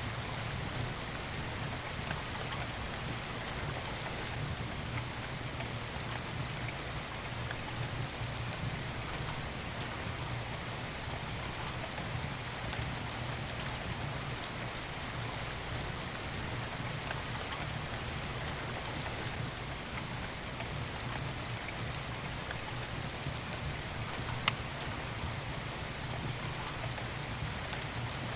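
Steady rain falling, an even hiss with faint scattered drips and ticks, under a low steady rumble. A single sharp click about three-quarters of the way through.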